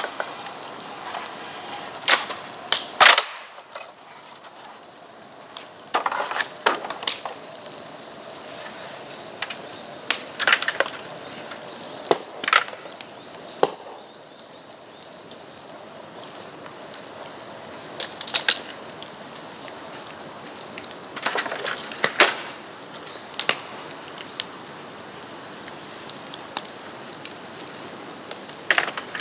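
Bamboo burning in an open bonfire, crackling with sharp cracks and pops at irregular intervals, some in quick pairs.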